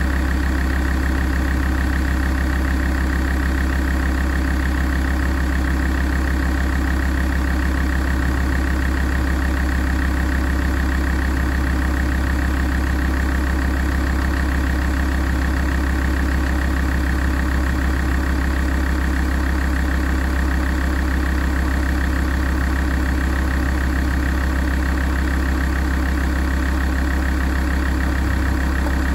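Alfa Romeo 166's 2.4 JTDm five-cylinder turbodiesel idling steadily while warming up, with no change in engine speed.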